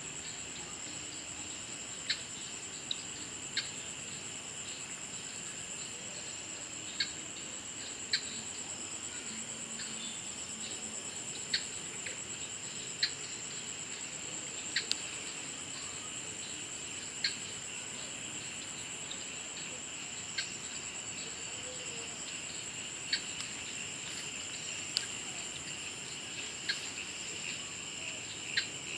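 Insects trilling in a steady, high, unbroken chorus, with short sharp chirps every second or two.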